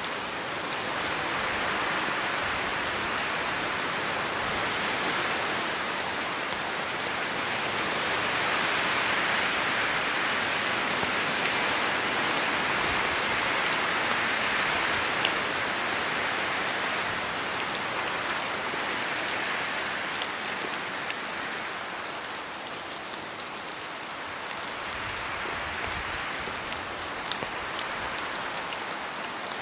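Steady rain falling in a forest, an even hiss that swells and eases slowly, with a few sharp individual drop hits.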